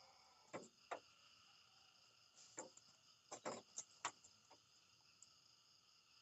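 Faint, steady chirring of an insect chorus, with about eight short, sharp clicks or knocks scattered through it, bunched together a little past the middle.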